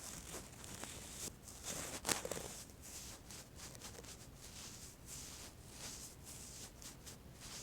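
A brush stroking in a run of short, soft swishes, with a sharper tap about two seconds in.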